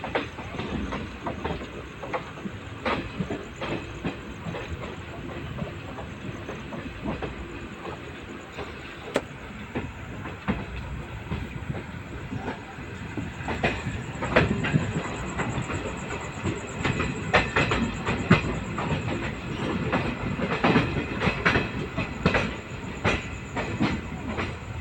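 Track sound of a moving Indian Railways LHB passenger coach: a steady running rumble with irregular clicks and knocks of the wheels over the rails. The clicks get louder and more frequent about halfway through.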